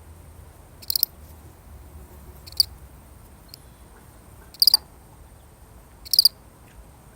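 A lone cricket chirping: four short, high-pitched chirps about a second and a half apart, the third one softer and shorter.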